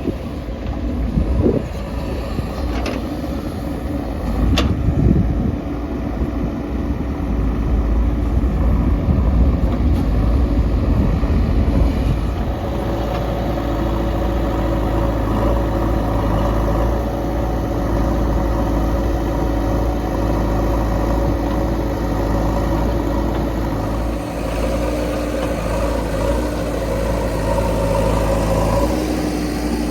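Diesel engines of a backhoe loader and tractor at work loading mud. For about the first twelve seconds the sound is an uneven rumble with a few sharp knocks. Then it settles into a steady engine note.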